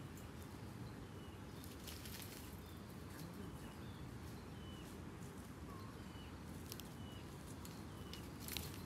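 Scattered rustling and crackling clicks, with faint short high bird chirps repeating every half second or so from about a third of the way in.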